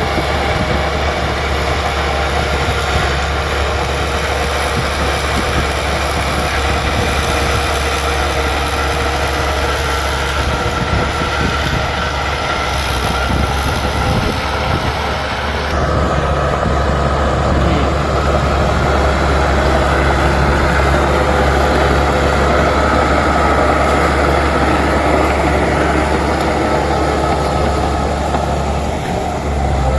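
Bulldozer's diesel engine running steadily under work, growing a little louder about halfway through.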